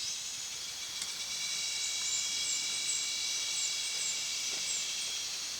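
Steady, high-pitched outdoor insect chorus of several shrill tones held at once. From the middle on, a run of short, high chirps repeats roughly every half second over it.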